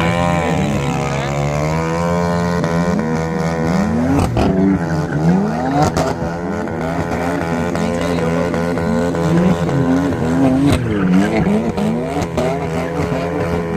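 Several vehicle engines revving again and again, their pitch rising and falling over a steady engine drone.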